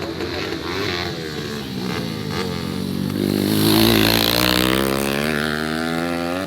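Grasstrack race motorcycles revving hard, the engine pitch rising and falling with throttle and gear changes. They are loudest about four seconds in, as a bike passes close.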